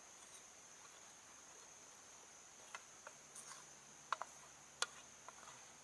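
Faint steady high-pitched insect drone, like crickets, with a handful of short sharp clicks and snaps, the loudest a little past the middle.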